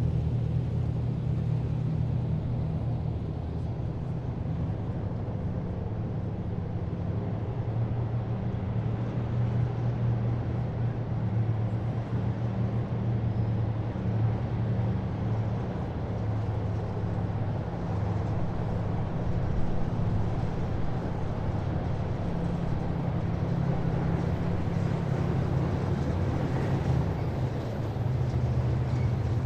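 Heavy military vehicles' engines running in a slow-moving column, a steady low drone that holds throughout.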